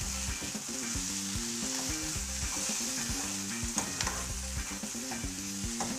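Onions and tomatoes sizzling in oil in a non-stick pan as a spoon stirs them, with a steady hiss and a few light taps and scrapes of the spoon against the pan.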